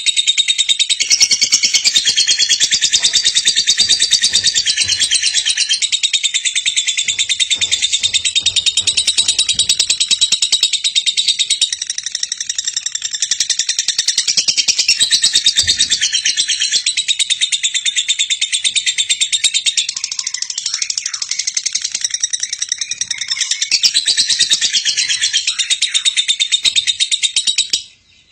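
Female lovebird chattering in a continuous rapid stream of high, shrill chirps and trills. The chatter stops abruptly near the end.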